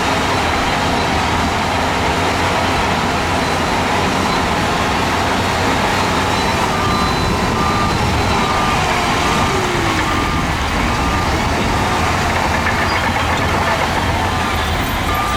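Heavy diesel earthmoving machinery running steadily under load. About seven seconds in, a reversing alarm starts beeping about twice a second and keeps going.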